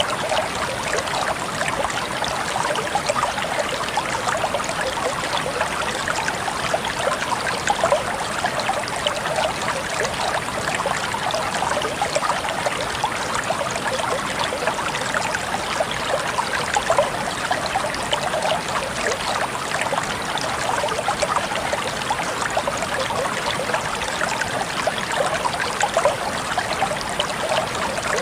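A shallow stream of clear water babbling and trickling over and between rocks, steady throughout, with many small splashes.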